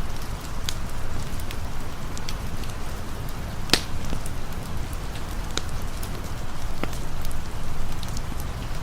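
Steady rain with a campfire crackling: scattered sharp pops over the rain's hiss and low rumble, the loudest pop a little under four seconds in.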